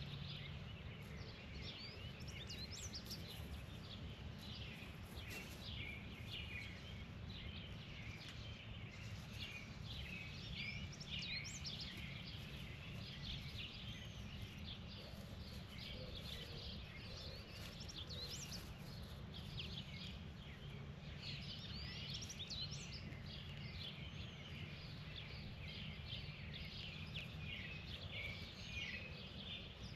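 Many birds chirping and calling in quick, overlapping short notes, busier in a few spells, over a steady low background rumble.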